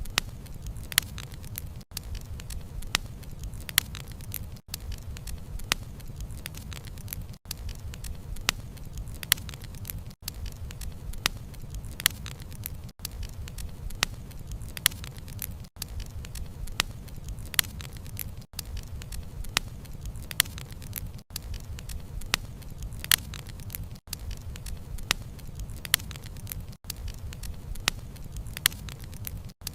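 Wood fire crackling: sharp, irregular pops and snaps of burning wood, several a second, over a low steady rumble of the flames. The sound briefly drops out about every three seconds.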